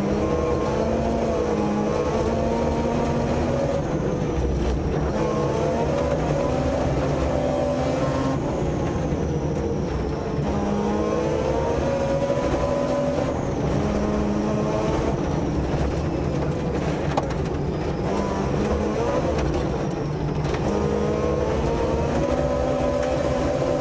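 Mazda RX-7's rotary engine heard from inside the cabin at full rally pace, revving up and dropping back again and again through gear changes, over a steady rumble of road noise.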